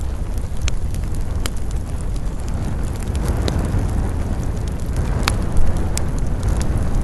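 Wood campfire crackling, with scattered sharp pops, the loudest a little past five seconds in, over a steady low rumble of wind.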